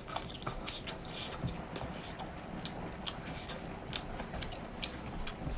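A person chewing food close to the microphone, with many short, irregular mouth clicks and smacks.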